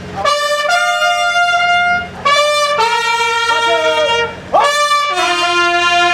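A solo brass horn playing a slow, solemn military call of long held notes, in three phrases separated by short breaths.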